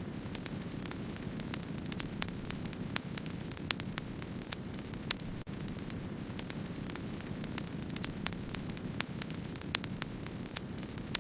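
Wood fire crackling: a steady low rush of burning, with frequent sharp crackles and small pops at irregular spacing, several a second.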